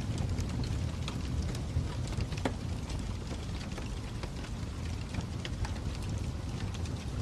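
Fire crackling: a steady low rumble of burning with scattered sharp pops and snaps, a few louder ones about one and two and a half seconds in.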